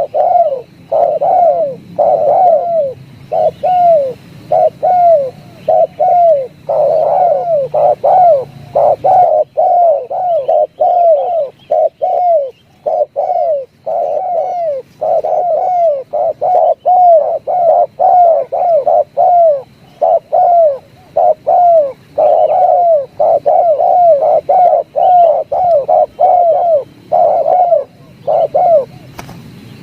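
Spotted dove (tekukur) singing: a loud, continuous series of short, arched coo notes, about two to three a second, delivered in runs with brief pauses between them.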